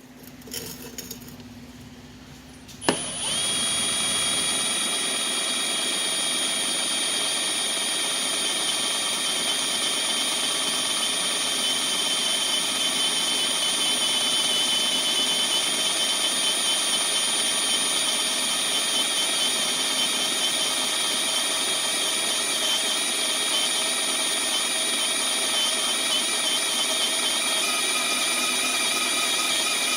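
Electric drill switched on about three seconds in and running steadily with a constant whine, boring into metal with a brand new drill bit.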